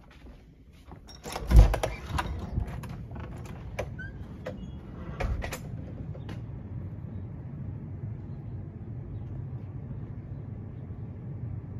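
A loud thud about a second and a half in, followed by scattered knocks and clicks for a few seconds, then a steady low hum.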